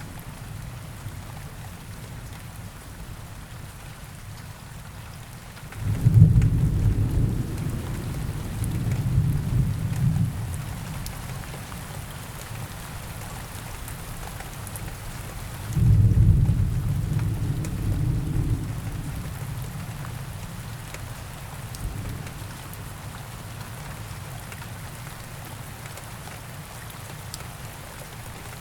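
Steady rain falling, with two low rolls of thunder: one about six seconds in that rumbles for several seconds, and another about sixteen seconds in that fades over a few seconds.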